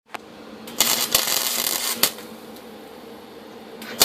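Electric welding arc crackling and buzzing on a steel exhaust expansion chamber, in two short welds about a second long each, the second starting near the end, with a steady hum from the welder between them.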